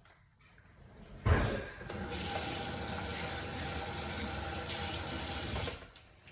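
A sharp knock, then a tap running water into a sink for about four seconds before it is shut off abruptly.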